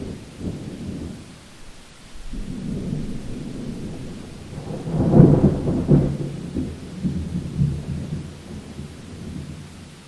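Rolling thunder in a rainstorm: a low rumble that swells, peaks loudest about five seconds in, and rolls away, over steady rain.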